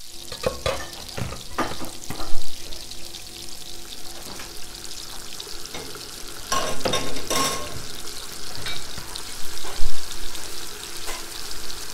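Food frying in oil in a pan, a steady sizzle, with repeated knocks and scrapes of a utensil stirring; the sharpest knocks come about two and a half and ten seconds in, with a busier clatter around seven seconds.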